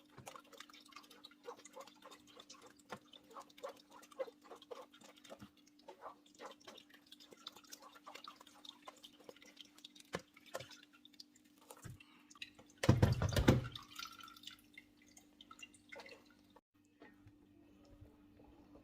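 Liquid dripping in small, irregular drops, with a brief louder clatter about thirteen seconds in.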